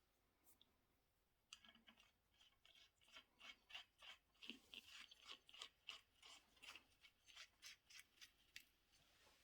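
A run of faint, quick clicking strokes, about three a second, starting about a second and a half in and stopping shortly before the end.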